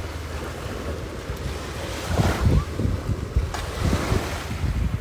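Ocean waves washing onto a beach with a steady surf hiss. From about two seconds in, wind gusts buffet the microphone in uneven low rumbles.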